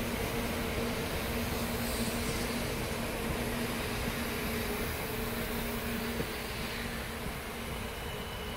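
Shinkansen bullet train pulling out and rolling past: a steady rumble with a low hum that eases off slightly near the end.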